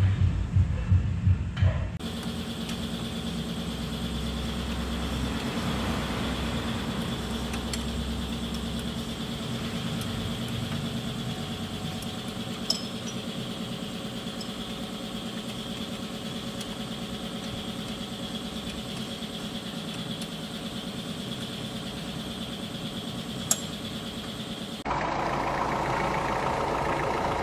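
Repaired Mitsubishi Libero engine idling steadily, with a constant low hum and a thin high whine. The first two seconds carry a few beats of music, and about 25 seconds in the sound jumps louder and rougher.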